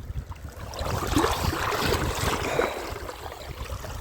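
Water sloshing and swishing as someone wades through a shallow river, a little louder for a moment about a second in.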